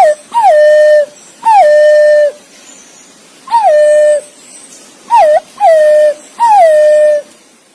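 Green pigeon (punai) calling to its companions: a series of clear whistled notes, each sliding down in pitch and then held level for around half a second. About seven come in quick succession, two of them short and clipped, one right at the start and one about five seconds in.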